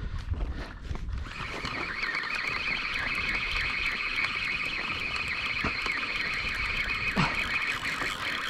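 Fishing reel with a fish hooked on a deep drop at about 500 feet, giving a steady high-pitched whine that starts about a second and a half in.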